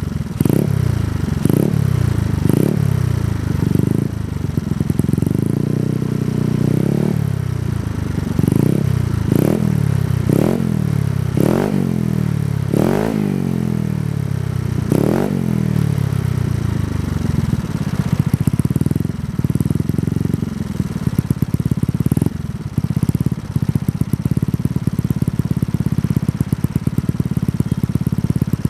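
Yamaha Mio scooter's single-cylinder four-stroke engine, breathing through a Kenochi Racing K1 aftermarket exhaust, revved in quick throttle blips about once a second, each rising sharply and dropping back. It then settles to a steadier run with only occasional blips in the latter half.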